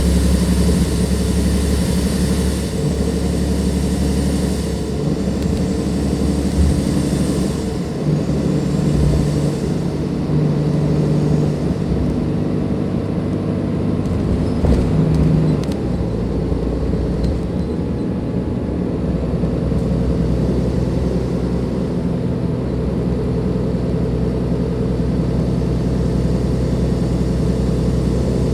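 Cummins ISLe diesel engine of a Dennis Enviro 500 double-decker bus running, with a high turbo whistle over the engine for the first eight seconds or so. The whistle then fades, leaving a steadier low engine sound, with a few light clicks about halfway through.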